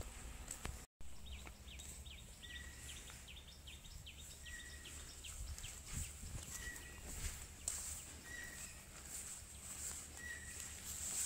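Faint birdsong from the trees: a rapid run of falling chirps for the first few seconds, and a short clear note repeated about every two seconds, over a low outdoor rumble.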